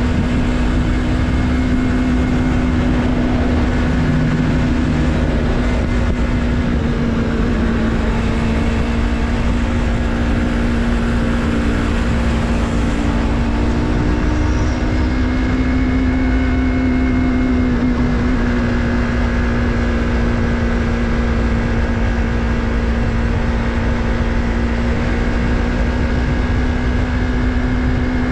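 Yamaha MT-03's 321 cc parallel-twin engine running at a steady, almost unchanging pitch as the motorcycle cruises at a constant speed, with a steady low rush of wind on the microphone.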